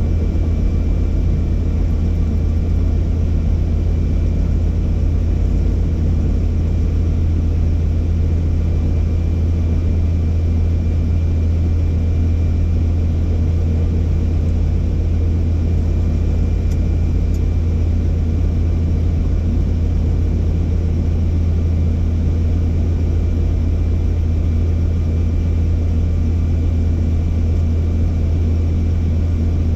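Helicopter in flight: a loud, steady rotor and engine drone with a deep constant throb and a faint steady high whine above it.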